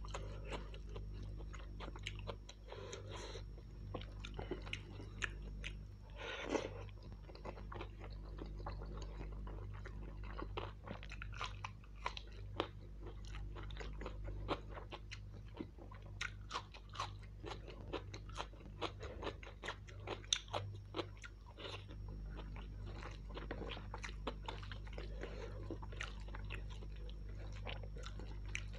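A man chewing mouthfuls of mutton kofta biryani eaten by hand: a dense, irregular run of short smacking and chewing clicks over a steady low hum.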